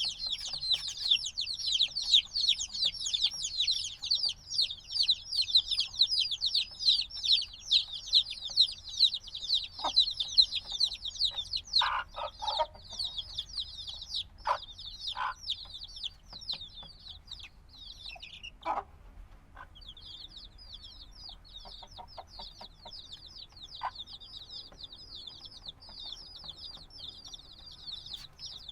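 A brood of chicks a few days old peeping all at once: dense, high, rapid chirps that each drop in pitch. The chorus is louder in the first half, breaks off briefly about two-thirds through, then resumes more quietly, with a few short, lower-pitched sounds around the middle.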